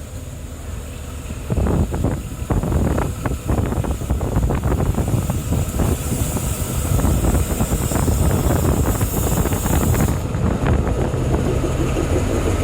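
Narrow-gauge Kalka–Shimla train pulling in during heavy rain: a steady low rumble, joined about a second and a half in by a dense, irregular clatter that keeps going, over the hiss of the downpour.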